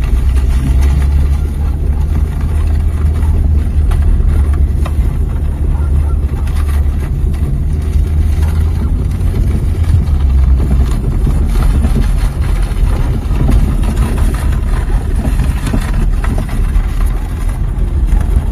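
Tractor engine running steadily, a deep rumble.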